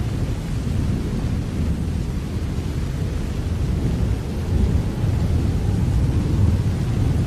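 Steady rain with a deep, low rumble beneath it that swells a little about halfway through.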